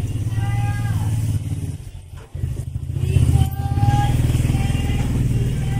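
A motorcycle engine running close by with a fast, even pulse; it drops away briefly about two seconds in, then picks up again.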